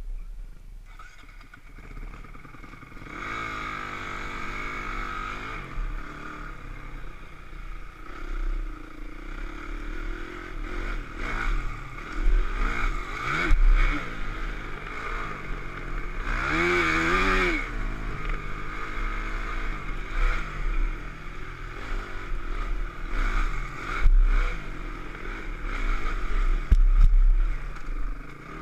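Dirt bike engine being ridden, revving up and down again and again as the pitch rises and falls, with louder surges about halfway through and near the end.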